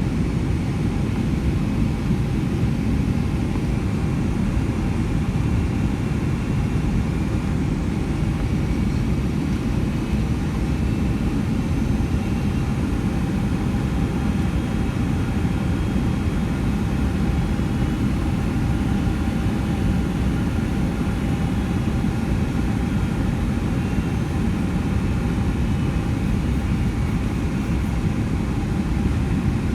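Steady cabin noise of a Boeing 757-200 in flight: a constant low rumble of engines and airflow with faint steady whining tones above it, heard from inside the cabin.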